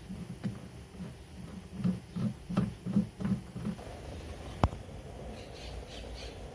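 Soft footsteps at a walking pace, about three a second, then a single sharp click about two-thirds of the way through. Faint high chirps come near the end.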